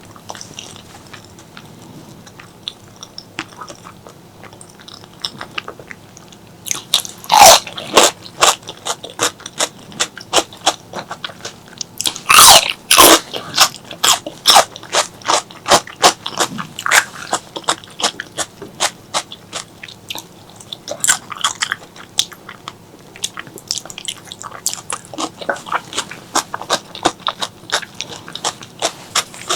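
Close-miked eating sounds of someone chewing pork leg curry and rice. It is quiet for the first several seconds, then a long run of quick, sharp mouth clicks sets in about a quarter of the way through, loudest in two clusters early in that run.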